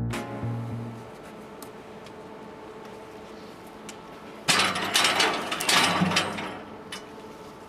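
Intro music ends. A faint steady hum with a few sharp clicks follows, then a loud rattling mechanical clatter of about two seconds from a small firewood machine, and a couple more clicks near the end.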